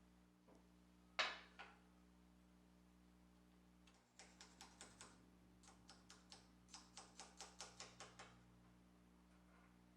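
Faint sharp clicks: a single knock about a second in, then a quick run of a dozen or more clicks at about four a second, ending near eight seconds in.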